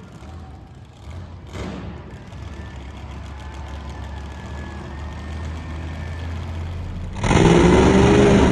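Monster truck engine running at a low rumble, then suddenly much louder about seven seconds in as it revs hard.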